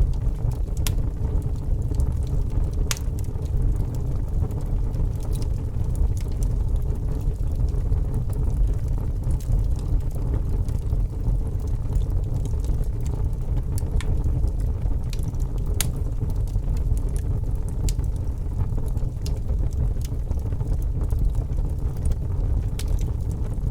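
Log fire burning in a fireplace: a steady low rumble of the flames with scattered sharp crackles and pops from the wood.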